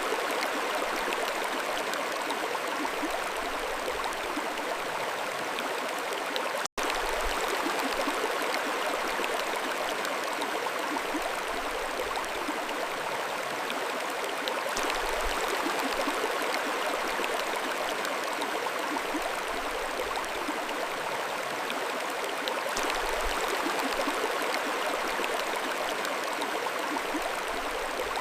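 Mountain stream water flowing in a steady rush, broken once by a split-second gap in the sound about seven seconds in.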